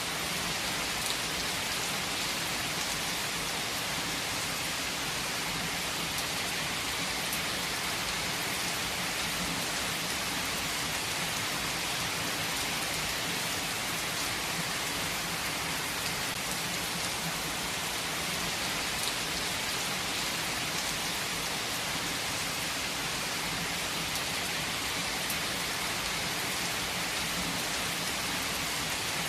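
Heavy rain falling steadily, an even hiss of rain on a surface with faint scattered drop ticks.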